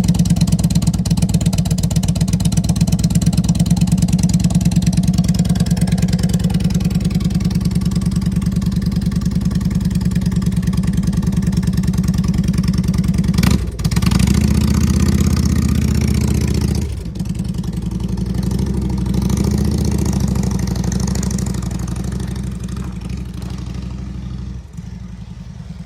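Harley-Davidson Road Glide Ultra's V-twin engine running with an even, pulsing beat. About halfway through it revs up and changes note twice, then grows gradually quieter toward the end as the bike pulls away.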